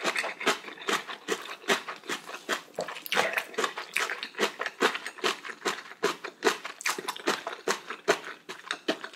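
Close-miked wet chewing of a mouthful of ramen noodles: a steady run of soft mouth smacks and clicks, a few a second.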